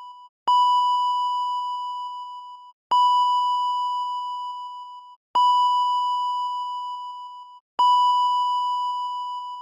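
Electronic chime: one clear ding that fades over about two seconds, repeated about every two and a half seconds, four times in a row.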